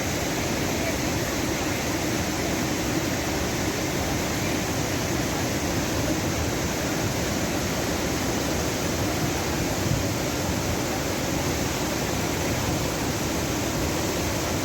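Floodwater rushing past in a swollen river or channel: a steady, even noise of fast, turbulent water.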